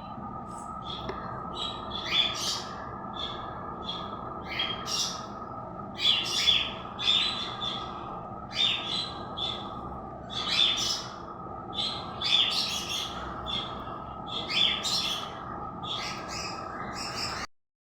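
Pet bird chirping in short, repeated calls, about one or two a second, over a steady background hum. The sound cuts out briefly near the end.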